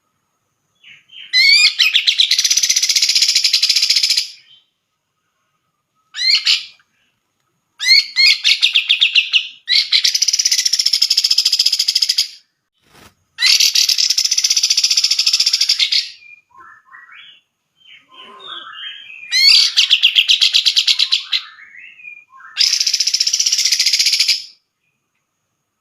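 Cucak jenggot (grey-cheeked bulbul) singing loud, fast, varied song phrases in about six bursts of under a second to about four seconds, with short silences between and some softer calls about two-thirds of the way through.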